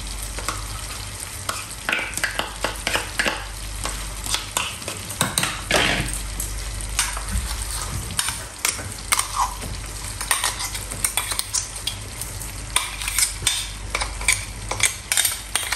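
Chicken masala sizzling in a pot on the stove, with frequent short clinks and scrapes of a spoon. Near the end the spoon scrapes ground spice paste out of a steel mixer-grinder jar into the pot. A steady low hum runs underneath.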